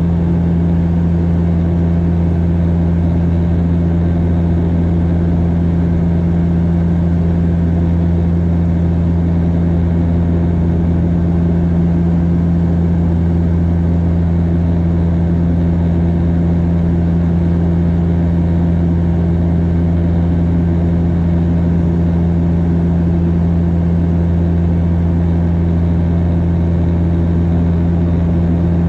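Turboprop propeller and engine drone inside the cabin of a Bombardier DHC8-Q400 in flight: a loud, steady low hum with a second, higher steady hum above it, unchanging throughout.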